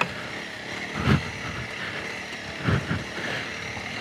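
Honda CRF300 Rally's single-cylinder engine pulling in second gear up a rocky trail, with two loud thumps about a second in and just before three seconds in.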